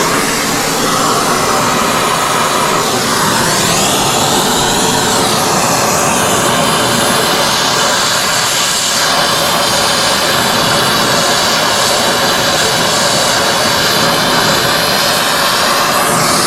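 Brazing torch flame burning with a loud, steady hiss while refrigerant line joints are brazed.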